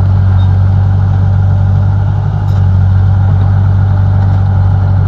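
Bulldozer's diesel engine running steadily with a deep, even hum and a fast fine pulse, dipping briefly about two seconds in.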